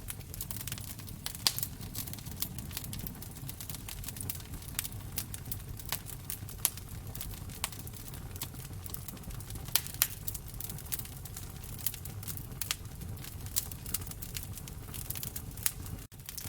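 Wood fire crackling in a fireplace: irregular sharp pops and snaps over a low, steady rumble of flame. The sound cuts out for an instant near the end.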